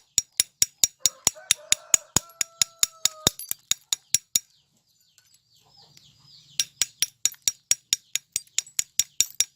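Rapid, even tapping on light-bulb glass, about four to five sharp clicks a second, as the glass is knocked off a plaster core; the tapping pauses for about two seconds midway, then starts again. A hen clucks briefly about a second in.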